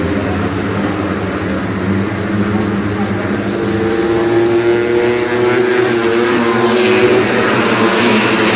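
Racing underbone motorcycles running hard on the circuit. One engine's note stands out through the middle, and the sound gets louder and brighter near the end.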